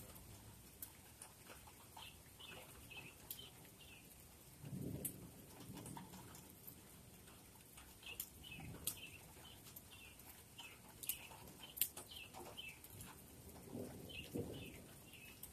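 A bird calling faintly in short runs of quick chirps, with scattered sharp ticks like dripping water and a couple of brief low rumbles.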